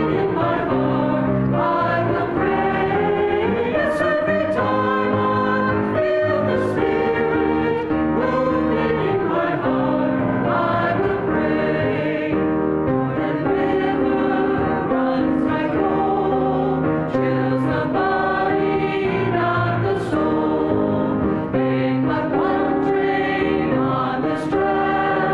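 Church choir singing a hymn with instrumental accompaniment, several voices in harmony over sustained chords, with a few sharp percussive accents.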